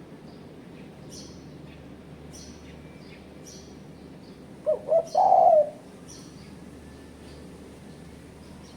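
Spotted dove calling once about halfway: two short coos then a longer rolling one. Faint high chirps from small birds repeat about once a second.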